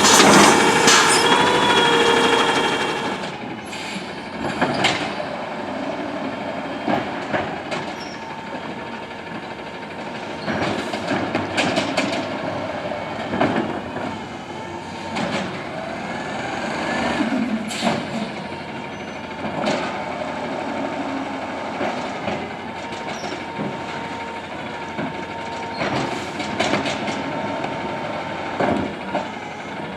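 Autocar ACX automated side-loader garbage truck at work: a loud whine for the first few seconds, then the truck running lower with a faint steady tone and repeated metallic clanks and knocks scattered throughout.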